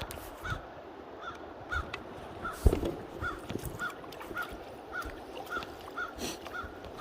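A bird repeating one short call about twice a second, steadily throughout, over a steady background hiss, with a single sharp thump a little before the middle.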